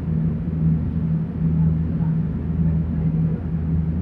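A tender boat's engine running steadily under way, a low drone that wavers slightly in strength.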